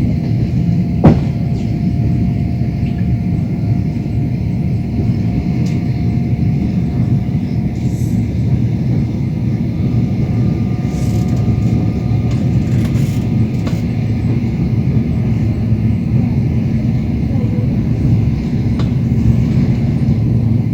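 Passenger train running, heard from inside the carriage: a steady rumble of the wheels on the track, with one sharp knock about a second in.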